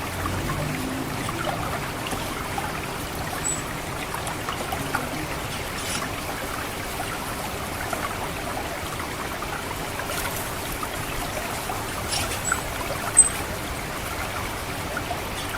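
Water trickling steadily through a rice paddy, with three short, very high chips of an orange-headed thrush's 'ngecit' call: one a few seconds in and two close together near the end, the last one the loudest.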